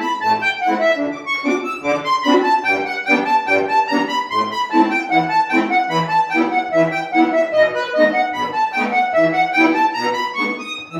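Solo accordion playing a Russian folk song: a flowing melody of running notes that rises and falls in the right hand over a steady, evenly pulsing bass-and-chord accompaniment.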